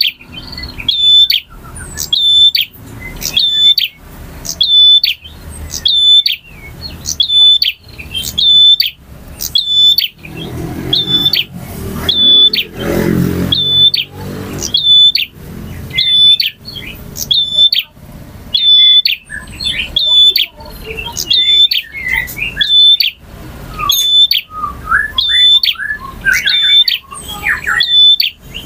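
Male bar-winged prinia (prenjak) singing, a loud, sharp, high chirp repeated about three times every two seconds. Varied, lower twittering notes join in during the last third, and a low rumble sounds about halfway through.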